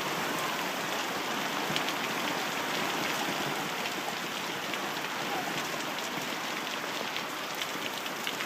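Heavy rain pouring down in a steady, dense hiss, with many small sharp drop hits.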